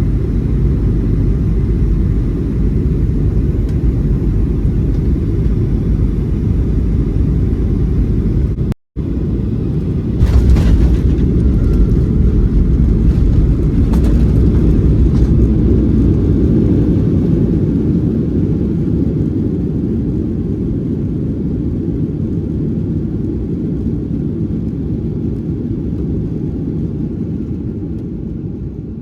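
Boeing 737-800 cabin rumble heard from a window seat during the landing rollout: about ten seconds in it suddenly grows louder, with a few sharp knocks, and then it slowly fades as the aircraft slows.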